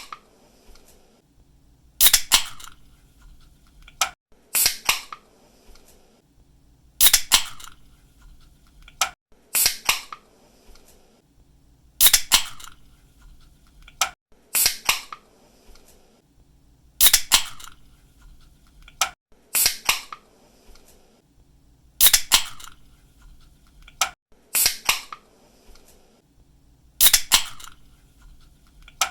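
Aluminium drink can pull-tab snapped open again and again: a sharp crack with a brief hiss roughly every two and a half seconds, with a lighter single click between some of the openings.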